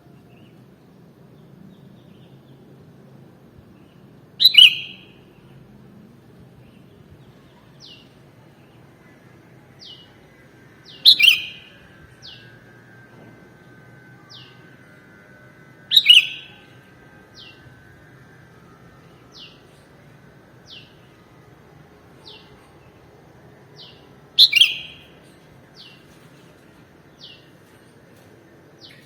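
Sooty-headed bulbul (kutilang) calling: four loud, short calls several seconds apart, with faint, thin high notes repeating about every second and a half between them, over a low steady background hum.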